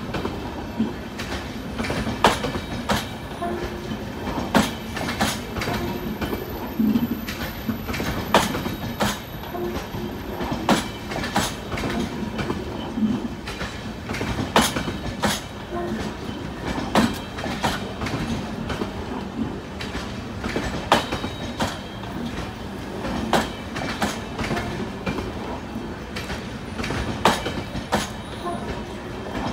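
Indian Railways LHB passenger coaches rolling past, their wheels clacking over rail joints in an uneven run of sharp clicks over a steady rumble.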